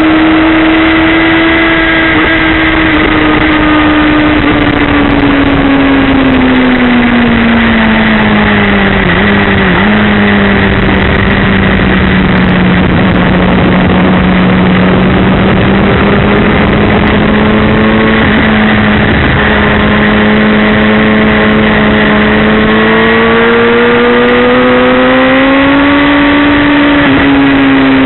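Suzuki GSX-R1000 inline-four engine running at speed, heard from on board with heavy wind rush. The engine note sinks over the first ten seconds, holds steady through a long stretch, then climbs again near the end before dropping.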